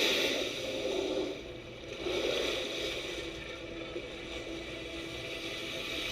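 Sea water noise: a steady rushing haze that dips briefly about a second and a half in.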